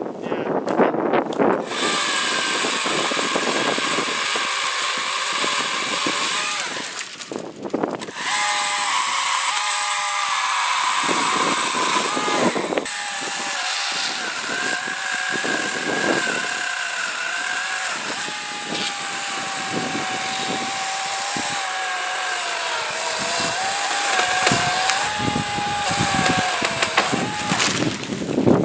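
Husqvarna 120i battery-powered chainsaw cutting maple wood: a steady electric motor whine with the chain running through the wood, its pitch sagging and wavering under load. Brief pauses come about seven and about twelve seconds in.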